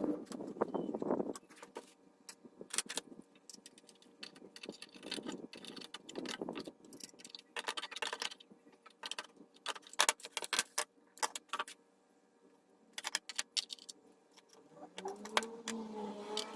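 Scattered metallic clicks and clinks of hardware and tools being handled while a water-pump motor is fixed onto a wooden bench. A denser running sound stops about a second in, there is a pause near the twelve-second mark, and a short pitched sound comes near the end.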